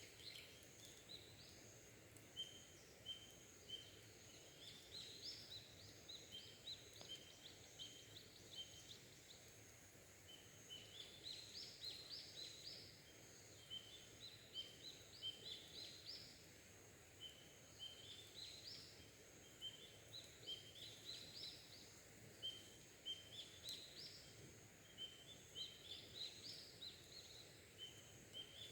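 Faint wild bird song: quick series of short rising chirps, several a second, in phrases a few seconds long with brief pauses between them. A steady faint high whine runs underneath.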